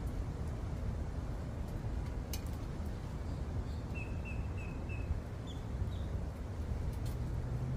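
A bird chirps four times in quick succession about four seconds in, then gives a couple of higher chirps, over a steady low rumble.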